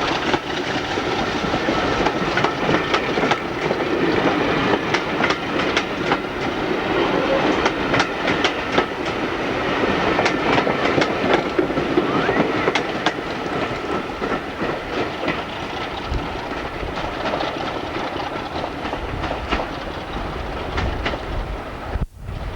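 Diesel-hauled train running past on jointed track: a steady rumble of wheels on rail, with the wheels clicking over the rail joints. The sound drops out sharply for a moment near the end.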